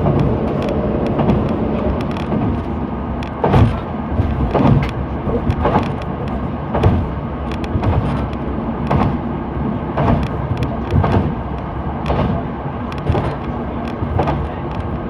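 Kyoto Tango Railway diesel limited express train running along the track, heard from inside. There is a steady rumble of running noise, with a sharp clack about once a second as the wheels cross rail joints.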